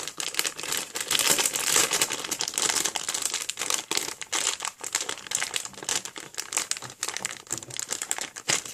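Packaging crinkling and rustling in dense, irregular crackles as the small parts of a USB fan kit are handled and unwrapped.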